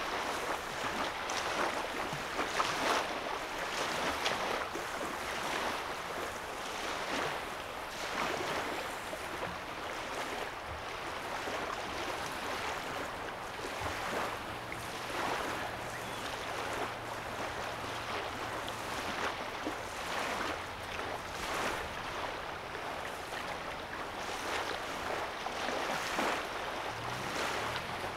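Small waves lapping on the shore of a calm lake: a continuous wash of little splashes that swells and eases every second or two. A faint low hum comes in about halfway through and again near the end.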